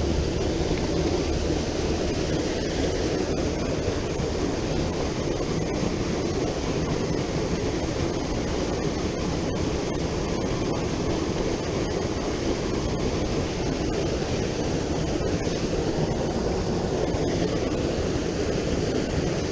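Steady rushing of flowing river water, an even noise that holds level throughout.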